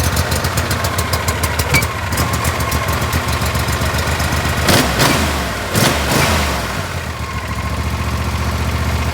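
John Deere S130 lawn tractor's V-twin engine running on choke just after a cold start, with an even firing rhythm. It surges louder briefly twice, about five and six seconds in.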